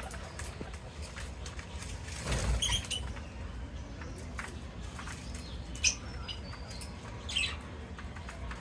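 Indian ringneck parrots feeding, with many small scattered clicks and taps. There is a brief louder flurry about two and a half seconds in, and a few short high chirps around six and seven seconds.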